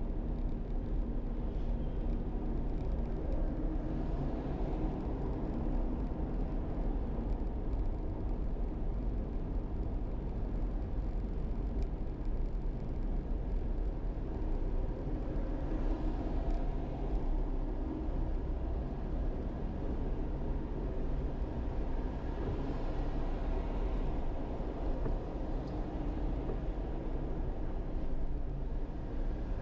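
Car engine running at low speed, a steady low rumble with no distinct events.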